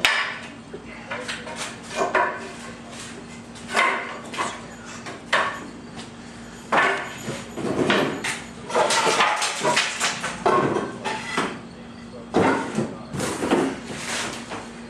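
Irregular knocks and clatters from objects being handled, with voices talking in the background.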